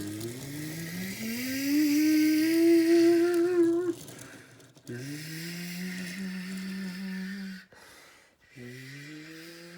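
A man imitating a jet airliner's engines spooling up with his voice: a hum that rises in pitch and holds. It comes three times, with short breaks, and the first rise is the highest and loudest.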